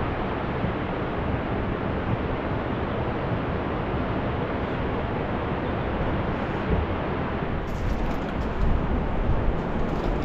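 Wind blowing across the microphone: a steady, rumbling rush that is heaviest in the low end and does not let up.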